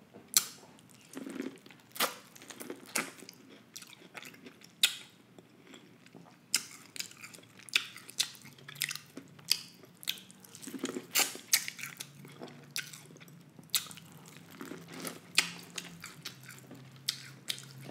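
Close-miked chewing of buttered corn on the cob: irregular wet mouth smacks and crunchy clicks, one every half second or so.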